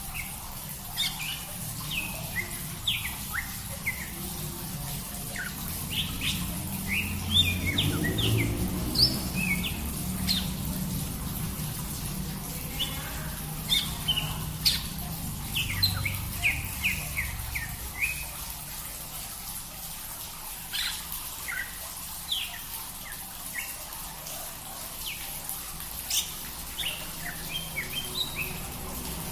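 Small birds chirping: many short, quick calls overlapping throughout, over a steady low rumble and hiss.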